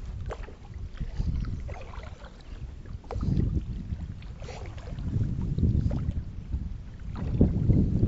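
Wind rumbling on the microphone in swells, growing louder near the end, as a fishing kayak moves on the water, with scattered light clicks and knocks.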